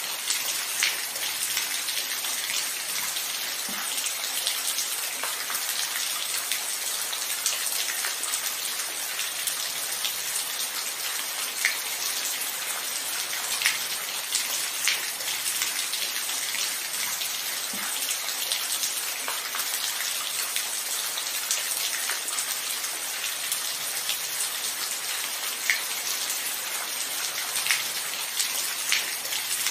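Steady rain falling: an even hiss with scattered sharper drops ticking here and there.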